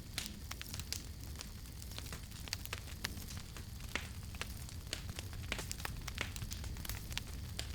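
Wood fire burning with irregular sharp crackles and pops, several a second, over a steady low rumble.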